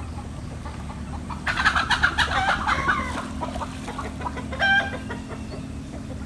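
Chickens clucking in a quick, busy burst, then one short squawk a little later, over a low steady hum.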